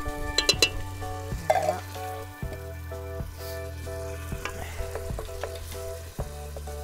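Thick coconut cream spooned from a tin into a hot pot of browned onions and spices, sizzling in the pan, with a spoon clinking sharply a few times about half a second in, then stirring.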